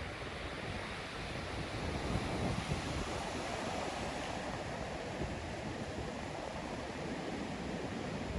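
Steady rushing noise with no pitch or rhythm, swelling slightly about two seconds in.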